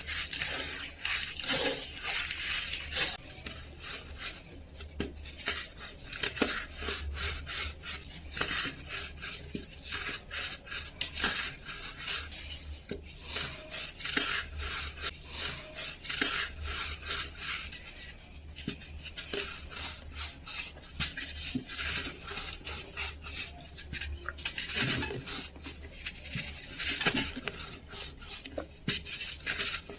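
A dry, brittle material being crumbled: a dense, continuous stream of small crackles and scraping rasps with no steady rhythm, over a low steady hum.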